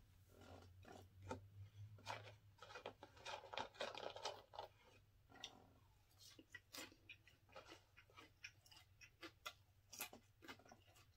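Faint mouth sounds of a person chewing and licking food off his fingers: a scatter of short, soft wet smacks and clicks.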